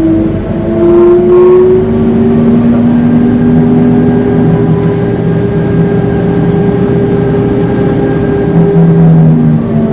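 Scania K230UB Euro 4 bus's engine and drivetrain under way with a steady howl. The pitch rises over the first second or so and then holds level, as if cruising.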